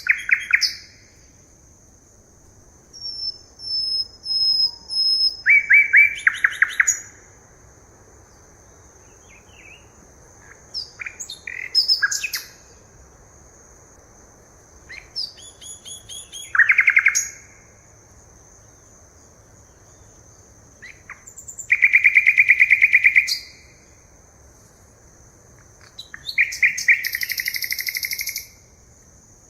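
Forest birds singing in bursts every few seconds: rapid trills and buzzy phrases, with a few high thin whistles. A steady high-pitched tone runs underneath throughout.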